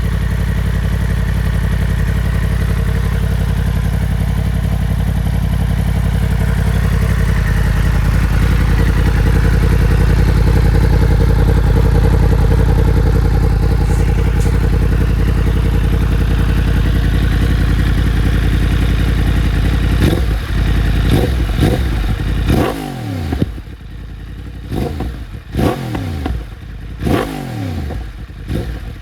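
Yamaha MT-10's crossplane inline-four running through a full de-cat titanium exhaust. It is held at steady raised revs for about twenty seconds, then given a series of quick throttle blips, the revs falling after each, with sharp pops and bangs on the overrun.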